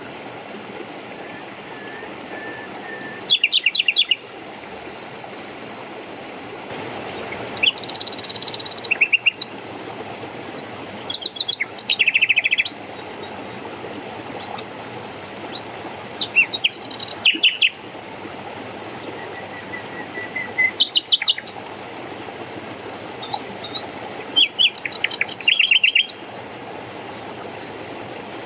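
Songbirds chirping in short, rapid trills of repeated high notes, recurring every few seconds over a steady rush of flowing water.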